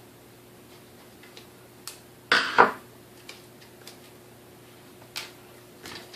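Handling and knocking of mixer parts and tools on a workbench: a few scattered clicks and taps, with one louder clatter about two and a half seconds in. A faint steady hum runs underneath.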